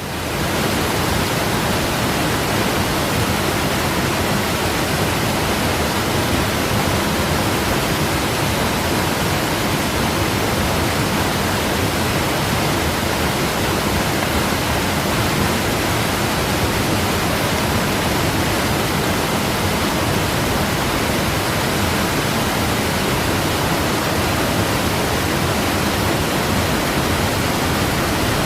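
Waterfall: a steady, unbroken rush of falling water, fading in at the very start.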